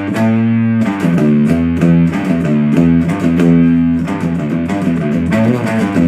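Electric guitar riff through a Supercoolpedals 77 Fuzz Blender, a Big Muff-style fuzz pedal, set with the smoke tone knob halfway and the tar clipping knob off. It is a loud riff of picked, distorted chords, some struck in quick repeats and others held to ring.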